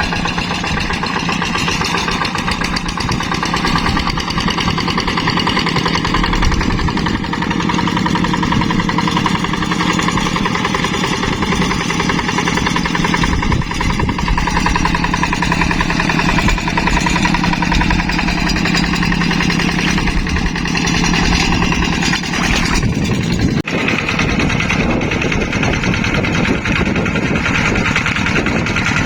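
Diesel engine of a Yanmar two-wheel hand tractor running steadily under load while ploughing a rice paddy, with a brief dip about 23 seconds in.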